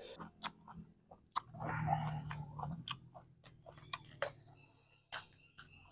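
A person chewing a mouthful of food close to the microphone, with many short wet mouth clicks and a low hum for a couple of seconds near the middle.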